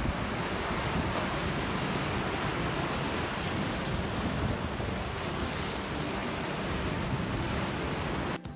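Sea waves washing on the shore, with wind buffeting the microphone, a steady rushing that cuts off abruptly near the end.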